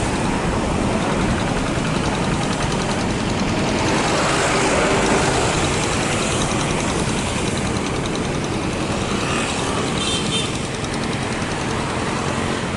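Steady engine noise with a rushing hiss, holding an even level throughout.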